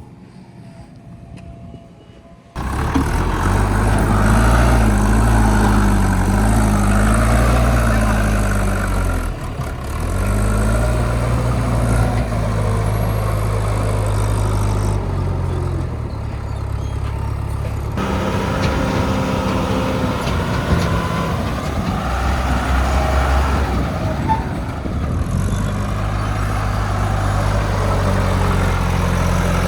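JCB 3DX backhoe loader's diesel engine running under load, its revs stepping up and down as the machine works. It comes in abruptly about two and a half seconds in, after a quieter stretch.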